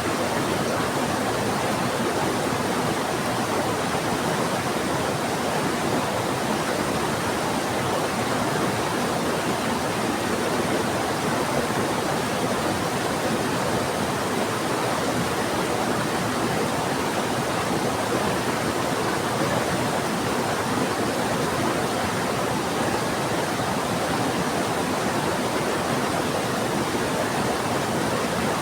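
Heavy rain together with a fast-flowing river, making a steady, even rushing noise with no breaks or distinct events.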